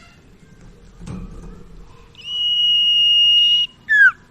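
Common iora (sirtu/cipoh) singing: a long, level whistled note held for about a second and a half, then a quick falling slurred note. A soft thump sounds about a second in.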